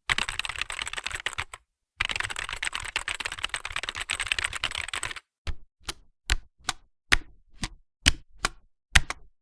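Typing key clicks: two fast runs of clicks, then about a dozen single key strikes spaced roughly half a second apart.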